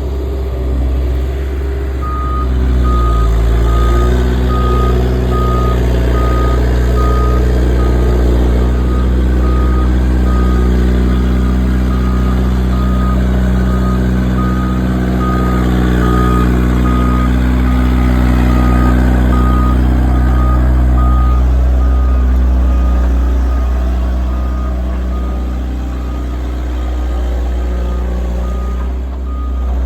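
Diesel engine of a Volvo vibratory road roller running under load, its note rising a few seconds in, with the machine's reversing alarm beeping steadily from about two seconds in.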